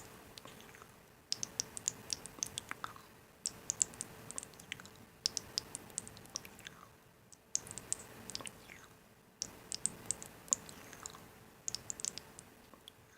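Bursts of sharp, light clicks and crackles over a faint hiss, coming in clusters that stop and start abruptly every couple of seconds.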